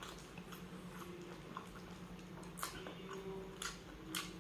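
Close-miked chewing and mouth smacks from someone eating, a few sharp wet clicks spaced irregularly, over a faint steady hum.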